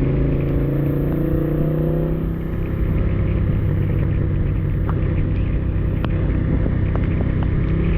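Honda Africa Twin motorcycle's engine running on the move over a low rumble of wind and road noise; the engine note drops about two seconds in and then holds steady at a lower pitch, with a few faint ticks.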